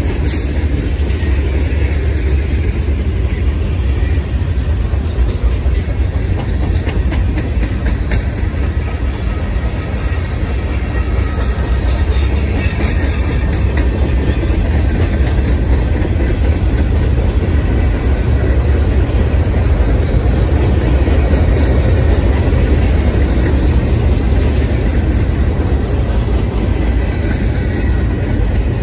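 Freight cars of a manifest train rolling past at close range: a loud, steady rumble of steel wheels on rail.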